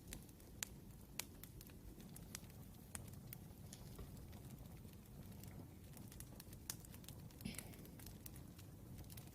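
Wood fire crackling softly, with irregular sharp pops and snaps over a low rumble.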